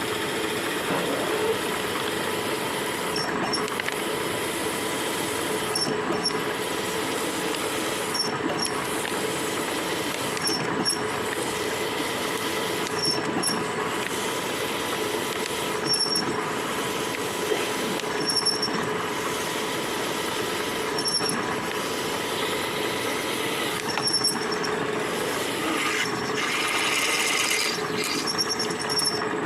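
Milling machine running steadily, with short high-pitched squeaks recurring about every two and a half seconds.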